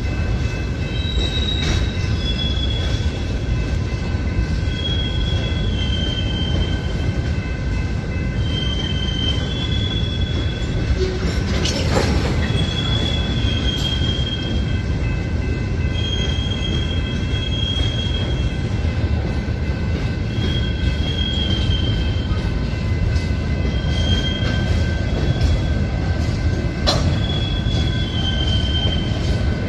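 Loaded gravel hopper cars of a freight train rolling past, with a steady low rumble of wheels on rail and short high wheel squeals every second or two. Two sharp clanks come through, one about halfway through and one near the end.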